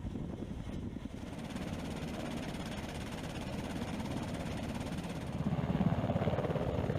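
Military helicopter in flight: rotor blades beating in a fast steady pulse under the turbine engines' whine, swelling briefly about five and a half seconds in.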